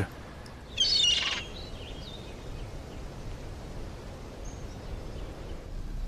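Small birds chirping: a short burst of quick high chirps about a second in, then a few faint calls, over a steady low outdoor background.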